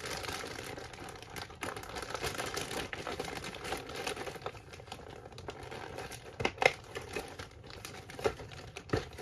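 Packaging crinkling and rustling as a model kit part is unwrapped and handled, with a few light clicks in the second half.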